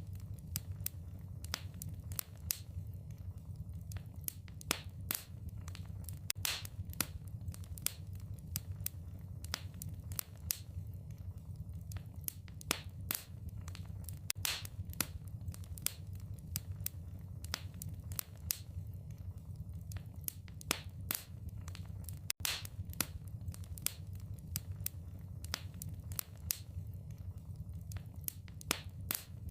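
Wood fire crackling in a fireplace: irregular sharp pops and snaps over a steady low rumble of the flames. The sound cuts out for a split second about two-thirds of the way through.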